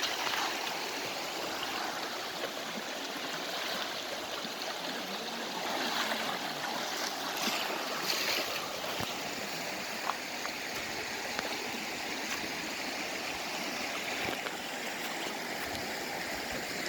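Fast-flowing mountain creek rushing steadily over rocks, an even hiss of moving water, with a few brief faint knocks.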